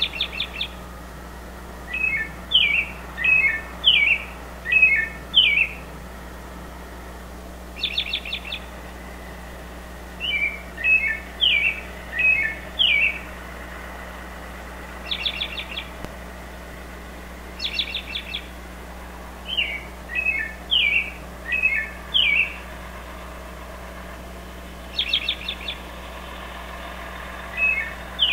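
Songbirds calling in woodland: short quick chattering bursts alternate with runs of four or five brief chirps, the pattern repeating every several seconds.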